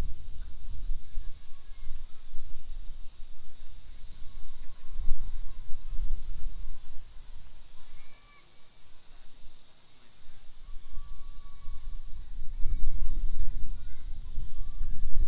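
Outdoor park ambience: a steady high-pitched drone with short bird calls over it, and wind rumbling on the microphone in gusts, strongest near the end.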